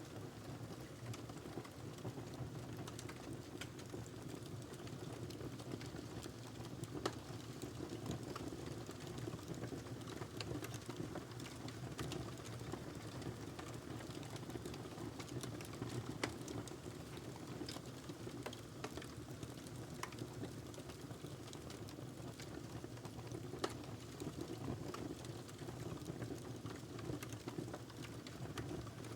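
Wood fire crackling in a fireplace: a steady low rumble of burning with frequent small pops and a few louder snaps.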